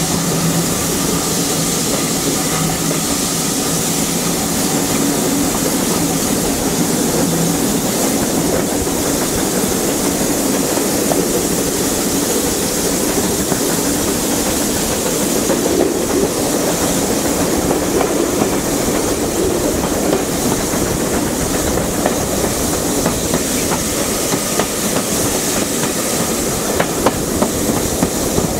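Steam-hauled passenger coach on the move, heard from an open window: a steady rush of wheels and wind with a hiss over it, and wheels clicking over rail joints more often near the end. A low steady hum is heard for the first several seconds.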